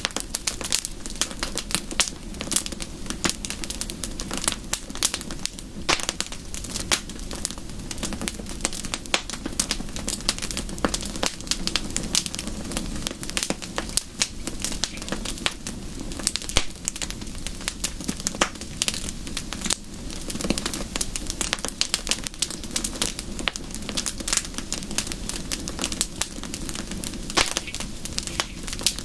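Wood fire crackling: a dense, irregular run of small pops and snaps over a low, steady rush.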